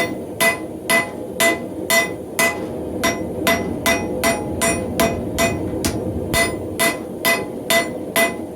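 Blacksmith's hammer striking hot mild steel on an anvil, steady blows about two a second, each with a short metallic ring, drawing the bar out longer and thinner.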